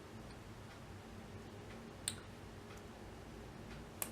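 Two small sharp clicks, one about two seconds in and one near the end, from stickers and paper being handled on a desk, over a faint low hum.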